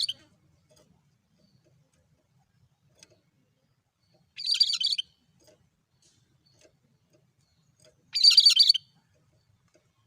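Cucak kerinci songbird giving a short, monotone call of rapid high notes, repeated at a steady rhythm: the tail of one call at the start, then two more about four seconds apart, each lasting about half a second.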